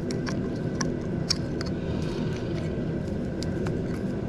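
A steady low rumble with a faint hum, and scattered light clicks and taps of small metal parts being handled.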